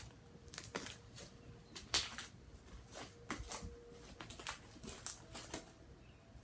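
Glittery slime being mixed and squished by hand, giving irregular small sticky clicks and crackles.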